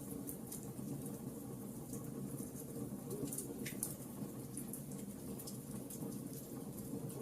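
Wood fire crackling: a steady low rush of burning, with frequent small, sharp pops and snaps scattered throughout.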